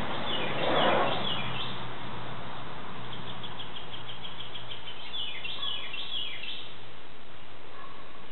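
Small birds chirping: a few quick high chirps near the start, a fast run of chirps about three seconds in, and runs of falling chirps around five to six seconds in, over a steady outdoor hiss and low hum. A brief rushing noise about a second in is the loudest moment.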